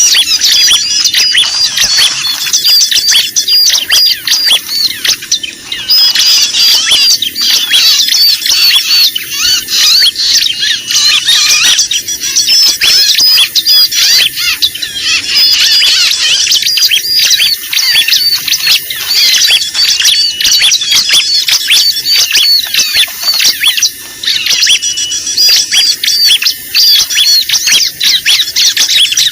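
Dense, continuous chorus of small birds' high-pitched chattering and scolding calls, many calls layered over one another without a break: a noisy bird-lure recording of the kind played to draw small birds in.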